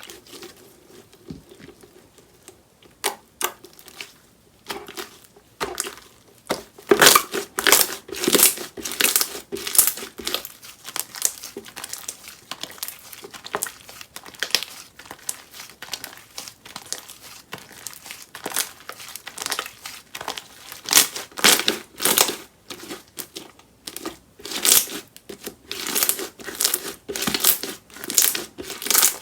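Hands squeezing, poking and stretching slime, giving runs of sticky crackling and popping clicks that come in bunches and grow louder and denser now and then.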